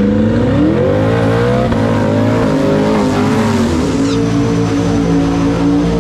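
Race car engine revving. Its pitch holds, climbs for about a second and a half with brief dips, falls back about four seconds in, then holds steady at a low rev.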